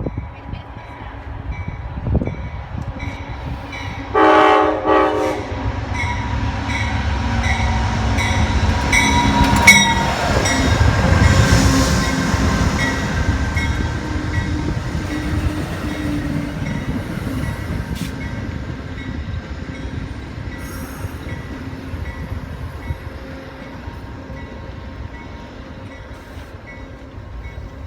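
Amtrak passenger train pulling into a station: the locomotive horn gives one blast of about a second, about four seconds in, then the train rumbles past, loudest around ten to twelve seconds in and easing off toward the end. A locomotive bell rings steadily, about twice a second, throughout.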